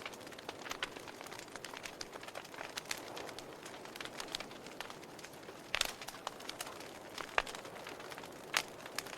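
Wood fire crackling: irregular sharp snaps and pops over a steady low hiss of the flames, with a few louder pops in the second half.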